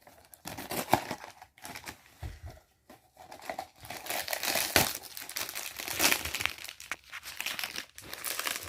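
Blind-box toy packaging being torn open and crinkled by hand: irregular rustling with sharp crackles, a short lull about two seconds in, then steadier crinkling.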